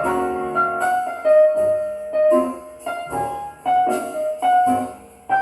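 Solo piano playing a melodic phrase of single notes and chords between sung verses, playing back from a lathe-cut 45 rpm Lexan picture disc.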